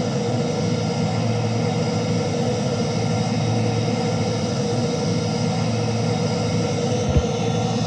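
Airbus A330 jet engines running at a steady, loud drone with a constant hum, during takeoff. A single short thump comes about seven seconds in.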